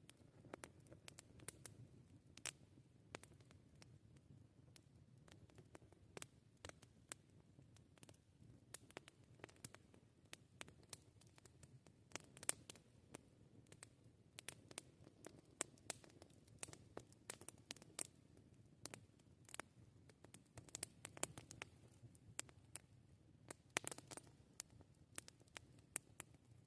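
Wood campfire crackling: irregular small pops and snaps, several a second, over a faint low rumble of the burning fire, with a louder snap about halfway through.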